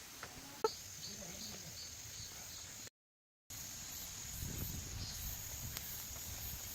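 Outdoor forest ambience with a steady high insect drone and faint chirps. There is a single sharp click under a second in, and the sound cuts to dead silence for about half a second near the middle. After that a low rumble comes in under the drone.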